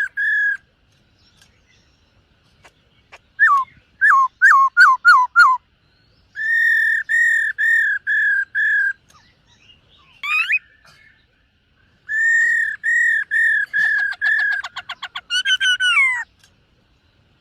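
Black-throated laughingthrush singing loud, clear whistled phrases. It gives a run of five quick down-slurred notes, then five even whistles, then a rising slur. Another series of whistles follows, running into a fast trill and a final falling note.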